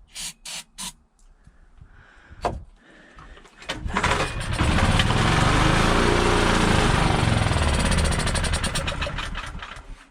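Portable generator's small engine, on partial choke, catching about four seconds in and running unevenly for around five seconds before dying out near the end, after a few short knocks at the start. The stalling is the sign of a fouled carburetor, which the owner thinks needs its jets cleaned or a rebuild.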